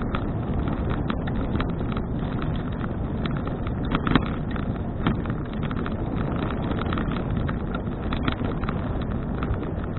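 Wind buffeting an action camera's microphone during a bicycle ride, over steady tyre and road noise, with frequent small rattles and knocks from bumps, one louder knock about four seconds in.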